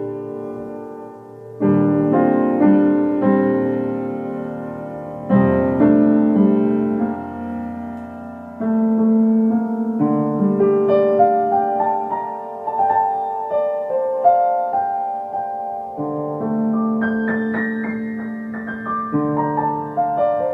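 Solo piano music: slow sustained chords struck every few seconds, then moving into quicker runs of notes over held bass notes.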